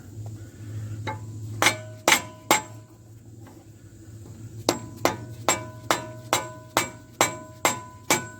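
Hammer blows on the steel front hub assembly of a 2008 GMC Envoy, each blow ringing: three blows, a short pause, then a steady run of about two blows a second, knocking a stuck part loose.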